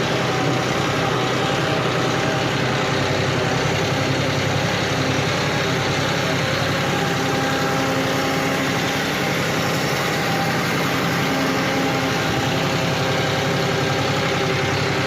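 John Deere 5210 tractor's diesel engine running at a steady, unchanging speed, like an idle.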